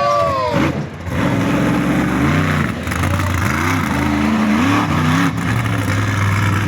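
Truck engine revving hard: a high rev that drops away in the first second, then several rising and falling revs, easing to a steadier run near the end.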